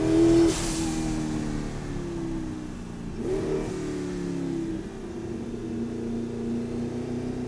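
The Audi R8's twin-turbocharged 4.2-litre V8 engine being driven, heard with the windows down. The engine note sinks gradually as the revs drop, climbs briefly about three seconds in, then sinks again. There is a short hiss near the start.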